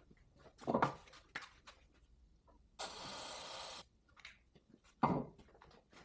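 An aerosol can sprayed in one steady hiss of about a second, amid scattered knocks and handling clatter.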